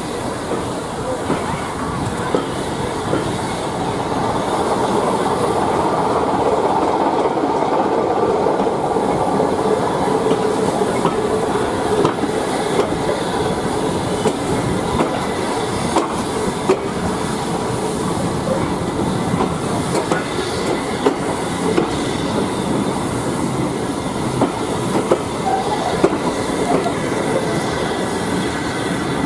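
Railway carriage running along the track, heard from on board: a steady rumble of wheels on rail with clicks over the rail joints, which come more often in the second half.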